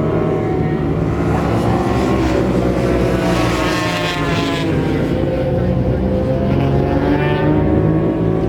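Several racing motorcycle engines running hard at once, their pitch climbing and dropping as the bikes accelerate, shift and brake, with a clear rising run a few seconds in.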